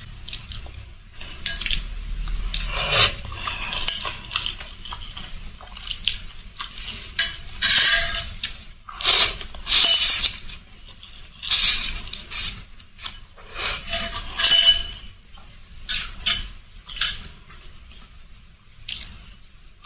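Eating sounds from a bowl of rice-vermicelli noodle soup: a spoon or chopsticks clinking against the bowl, mixed with short noisy slurps, coming in irregular bursts.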